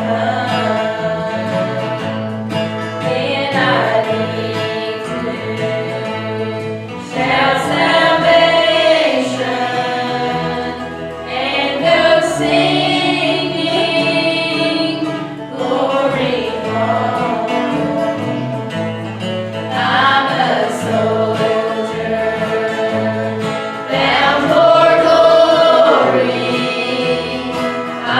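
Congregational choir singing a gospel hymn in phrases of a few seconds each, over instrumental accompaniment with a steady bass.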